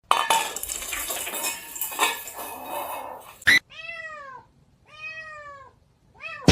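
Clattering noise with a few knocks for about three seconds, then a cat meowing twice. The two meows are drawn-out, about a second apart, each rising then falling in pitch.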